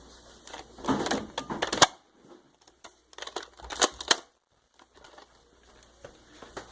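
Clicks and rattles of hard plastic being handled, most likely the toy blaster and its scope attachment, in two bursts of about a second each.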